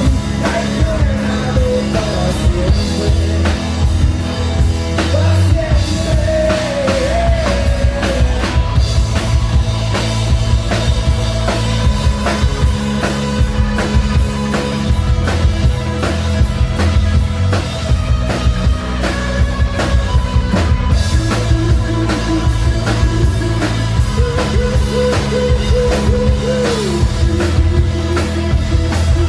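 Melodic hard rock band playing live at full volume, a drum kit keeping a steady beat under the rest of the band.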